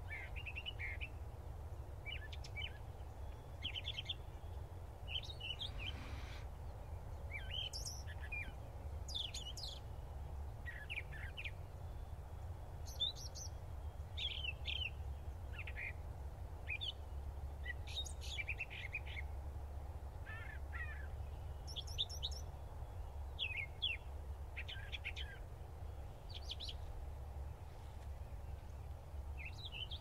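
Small birds chirping: many short, high chirps and call notes, scattered irregularly, over a steady low rumble.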